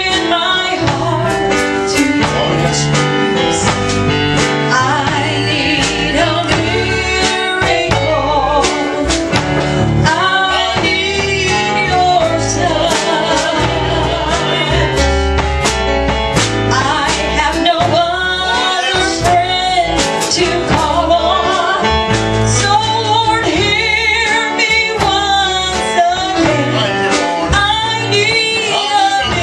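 Male and female voices singing a gospel duet over live band accompaniment with guitar, bass and a steady beat.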